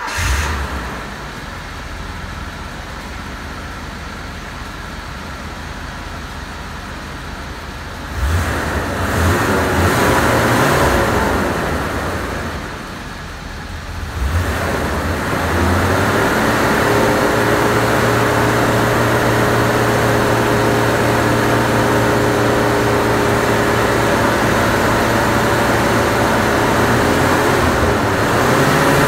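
Older Mercedes-Benz sedan's engine, just started and idling, then revved about eight seconds in, dropping back near the middle, and brought up again to a steady fast idle. The engine is run to test whether the hydraulic suspension pump raises the car.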